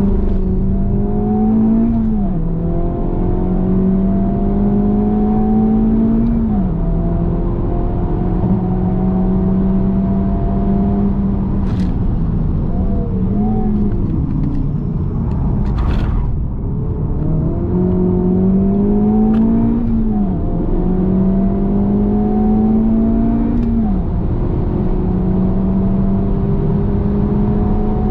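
2023 Honda Civic Type R (FL5) with its 2.0-litre turbocharged four-cylinder, heard from inside the cabin under hard acceleration. The note climbs through each gear and drops sharply at every upshift. About halfway the note falls as the car slows, with a couple of sharp clicks, then it pulls through the gears again.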